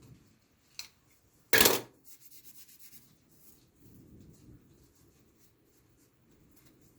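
A sharp click, then a short, loud rub or scrape, followed by about a second of light, rapid ticking and faint low rumbling.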